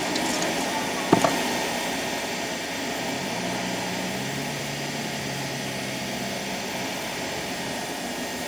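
Steady rushing blower noise of a car wash vacuum, with one sharp click about a second in and a faint low hum that comes in about three seconds in and fades near seven.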